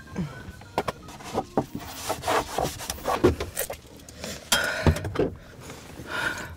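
Close-miked eating and tableware noises: a run of short scrapes, rubs and clicks, with two longer scrapes about halfway through and near the end.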